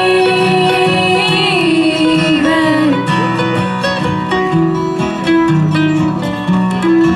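Live acoustic bluegrass-style band: a long sung note with a slight waver closes a line, then plucked acoustic guitar and strings carry on without voice from about three seconds in.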